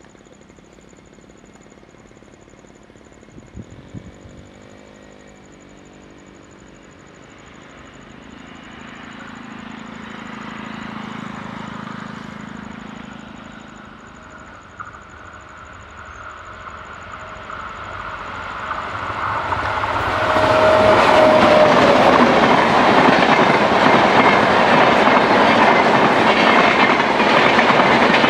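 Indian Railways AC double-decker train approaching and passing close by. A short horn-like tone sounds about four seconds in and the rumble builds. From about twenty seconds in, the wheels clatter loudly over the rail joints as the carriages run past.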